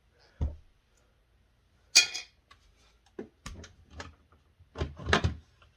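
Irregular sharp clicks and knocks of plastic refrigerator parts and screws being handled as the freezer's ice maker is taken apart. The loudest clack is about two seconds in, and a quick cluster of knocks comes near the end.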